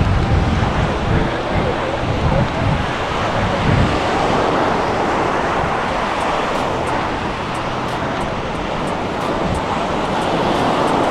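Surf washing ashore in a steady rush, with wind buffeting the microphone during the first few seconds.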